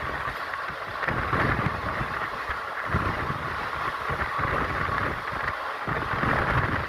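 Express train running along the track: a steady rumble and rattle of the coach, with uneven low thumps from the wheels.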